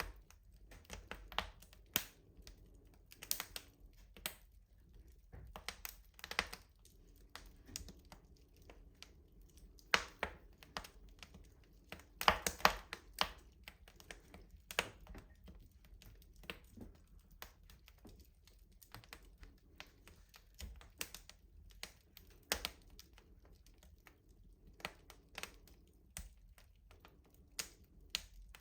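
Wood fire crackling in a rustic stove: irregular sharp snaps and pops at varying loudness, with a burst of louder pops about twelve seconds in.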